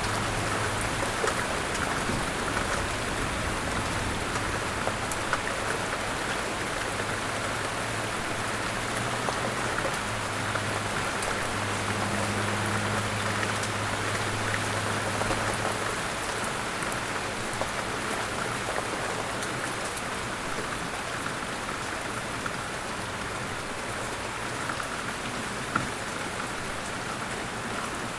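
Steady rain falling, an even hiss with scattered ticks of individual drops. A faint low hum sits under it for the first half and then fades out.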